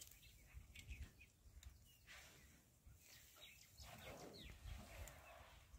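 Quiet bush ambience, near silence, with a few faint bird chirps scattered through it over a low background rumble.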